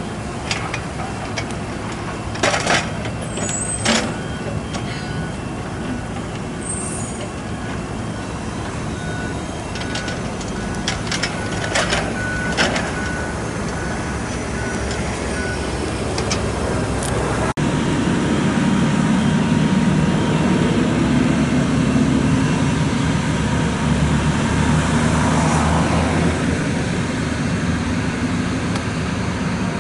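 Steady road-traffic noise from passing motor vehicles, with a few sharp clicks in the first half. The sound changes abruptly a little past halfway into a louder, deeper rumble.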